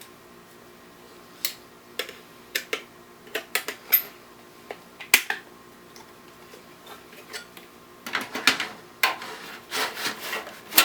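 Sharp plastic and metal clicks and knocks as a CD-ROM drive is handled and fitted into a desktop computer's drive bay, followed about eight seconds in by a denser stretch of rustling and clattering handling.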